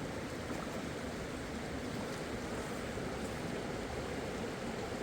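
Steady rushing of a fast mountain river, an even noise with no breaks.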